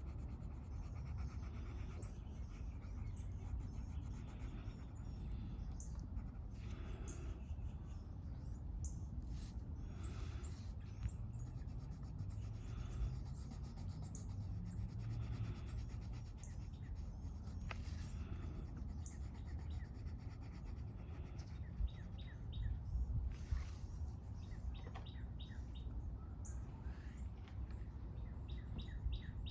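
Park ambience: birds chirping on and off over a steady low outdoor rumble, with the scratch of coloring on paper.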